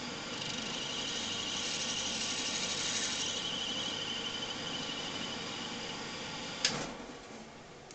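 Small metal lathe running while the cutting tool takes a fine pass on brass stock, the brass squealing under the cutter. About six and a half seconds in there is one sharp click, and the running sound then dies away.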